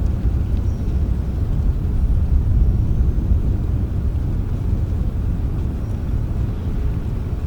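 Rainstorm ambience: a steady low rumble with little high hiss, even throughout.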